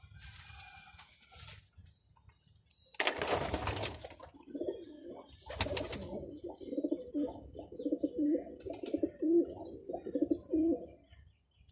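Pigeon cooing, a rhythmic run of low pulsing coos lasting several seconds. Two short, loud bursts of noise come before and early in the cooing.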